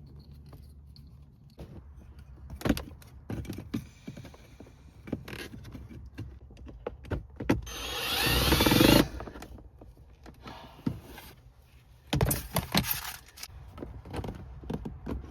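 A speaker and plastic door trim being clipped and fitted back into place: scattered knocks and clicks, with a swelling mechanical whir about a second long a little past the middle and a burst of knocks a few seconds later.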